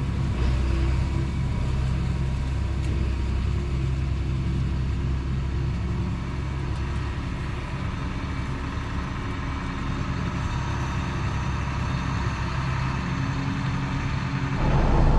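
Diesel tractor engine running steadily, a deep even drone. Just before the end it turns louder and fuller.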